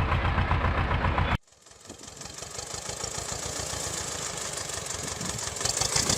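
Small engine of a homemade 8-horsepower cultivator running with a fast, even pulse, cut off abruptly about a second and a half in. Another engine-driven machine then fades up gradually, running with a steady hiss.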